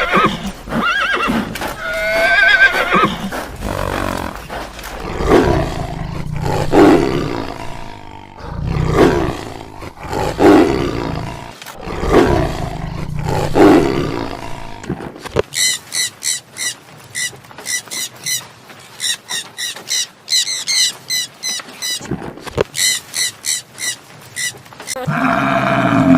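A run of animal calls. A whinny-like neigh comes first, then a series of deep roars, about one every second and a half. After that comes a long stretch of rapid, high-pitched chattering, and another neigh near the end.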